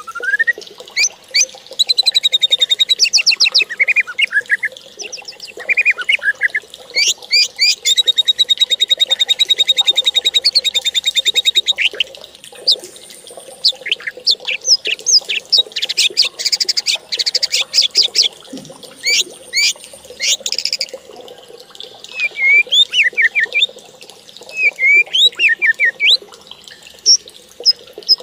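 Bird song: long, rapid, high-pitched trills lasting several seconds, mixed with short chirps and quick rising and falling notes.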